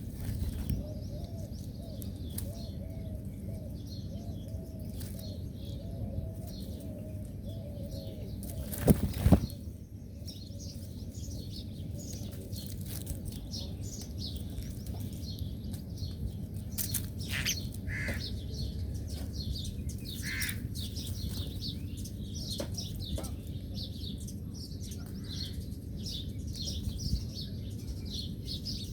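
Many small birds chirping in short, high, rapid calls over a steady low rumble, with one short loud burst of noise about nine seconds in.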